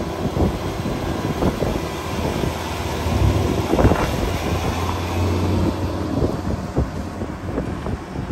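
An engine running steadily, its low hum swelling for a few seconds midway, under gusty wind buffeting the microphone.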